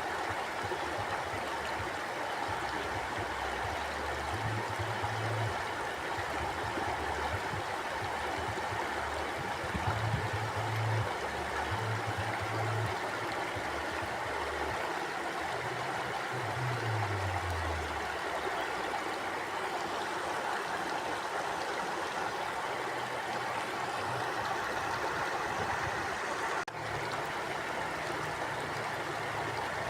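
Mountain stream flowing steadily over rocks, a continuous rushing and burbling of water, with a few low rumbles coming and going through it.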